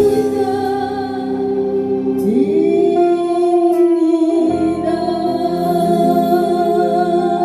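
A song from a Korean song medley: a singer holds long, sustained notes over keyboard accompaniment, with one note sliding up about two seconds in.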